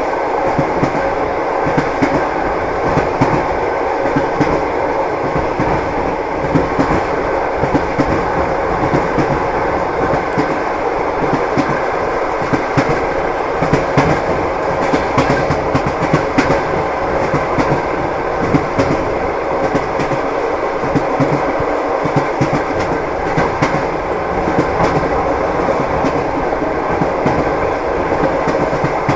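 Passenger train running at speed, heard from inside the carriage: steady running noise with the clickety-clack of the wheels knocking over rail joints, and frequent sharp knocks throughout.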